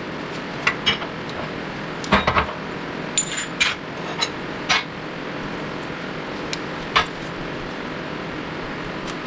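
Scattered metallic clinks and knocks of steel tools and parts being handled and set down, one briefly ringing, over a steady shop background hiss. Most fall in the first half, with one more late on.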